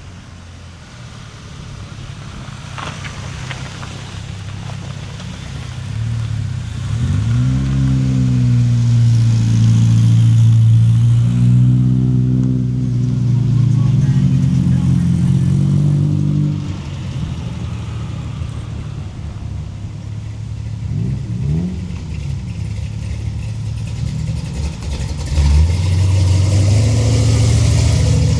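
Car engines revving and running. The pitch climbs about seven seconds in and is held high, drops back around sixteen seconds, blips up and down again a few seconds later, and rises once more near the end.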